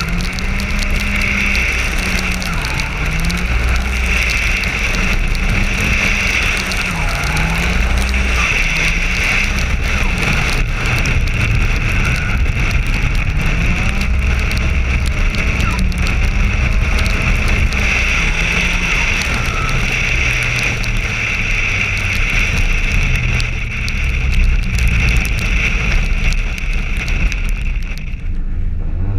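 Nissan 200SX S14's engine revving up and down repeatedly as the car is driven hard on a wet track, under a steady wind and road hiss on the onboard camera's microphone. The hiss drops away near the end.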